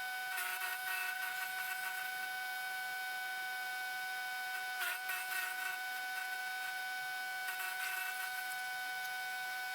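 Tractor-driven 5-inch wood chipper running at a steady speed, a constant whine. Three short rougher bursts come about half a second in, around five seconds in and around seven and a half seconds in.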